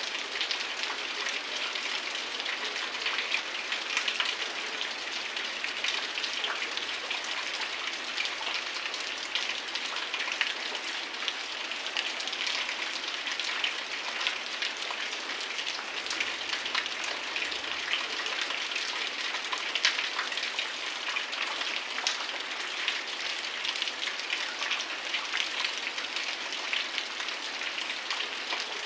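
Heavy rain falling steadily: an even hiss of rain with many sharp drop impacts spattering on nearby surfaces.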